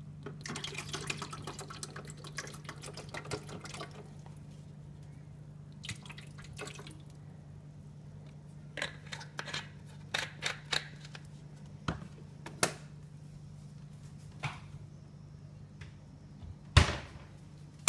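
White vinegar poured from a bottle into a Keurig coffee maker's water reservoir, splashing and gurgling for about four seconds. Then scattered light clicks and knocks and one louder thump near the end, over a steady low hum.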